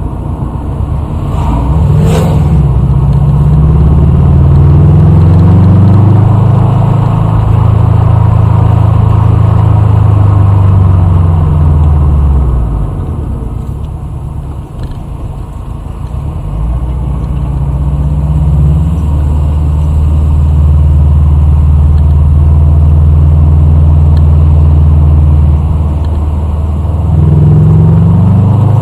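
A vehicle engine heard close up, running under load with its note climbing and dropping as it changes speed and gears. It eases off to a lower, quieter running about twelve seconds in, then pulls up again a few seconds later.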